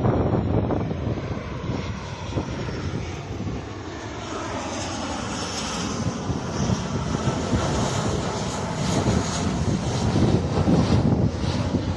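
Airliner engines on final approach passing close by: a continuous rumble with a high whine that swells through the middle, and the rumble growing louder near the end.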